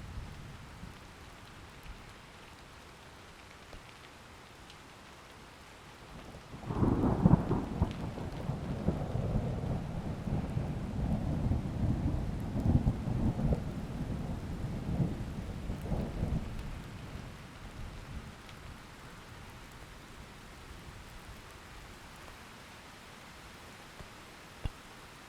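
Steady rain hiss with a clap of thunder that breaks sharply about a quarter of the way in, then rolls and rumbles for about ten seconds before fading back to the rain.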